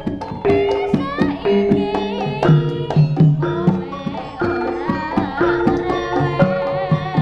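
Live Javanese jaranan gamelan music: kendang hand drums beating a quick rhythm under held, ringing metallophone notes, with a wavering high melody line above.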